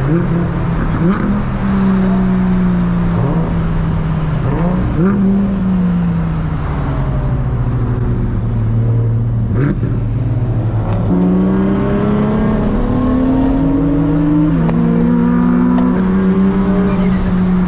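Big-turbo Nissan 350Z engine under way, its revs sinking slowly and then jumping back up several times as the throttle and gears change. There is a sharp click about ten seconds in.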